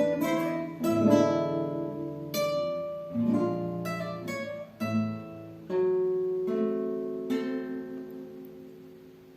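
Two guitars playing a duet through the closing bars of a piece: a few last chords are plucked and left to ring, and the final chord dies away near the end.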